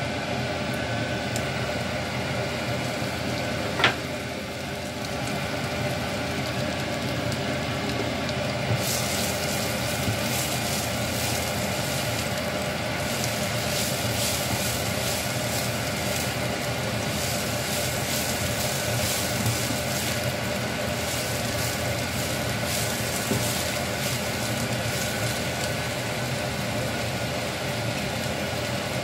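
Potato wedges and sliced red onion frying in oil in a nonstick pan: a steady sizzle over a low steady hum, with one sharp click about four seconds in. From about nine seconds the sizzle turns louder and crackly.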